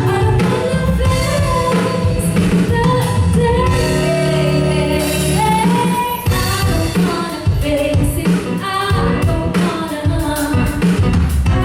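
A pop song played live: a singer's voice over band accompaniment, with drum and cymbal hits in the second half.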